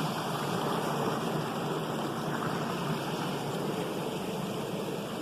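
Stream water rushing steadily, an even continuous hiss with no break.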